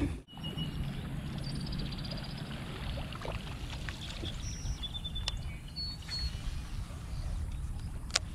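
River water running steadily, with a few faint, short high chirps and two sharp clicks, one about five seconds in and one near the end.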